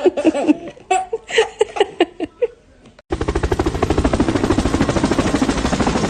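A person giggling in short bursts, then, about three seconds in, a loud rapid rattling that starts suddenly, at many pulses a second.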